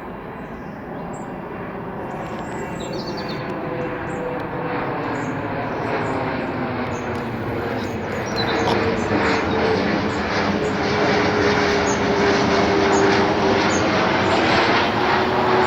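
Jet engines of a twin-engine business jet, growing steadily louder as it approaches, with a whine coming in about halfway through.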